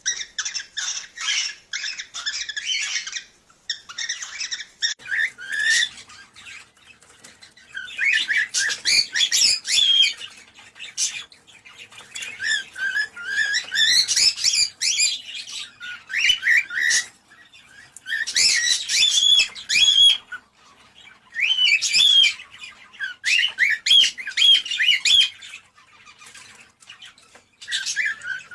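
Cockatiels warbling and chirping in bursts of song a few seconds long, with short pauses between phrases. This is the kind of song played to stimulate cockatiels to breed.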